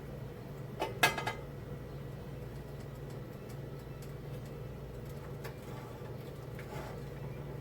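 A brief clink and clatter of kitchen utensils about a second in, a few quick knocks together, over a steady low hum.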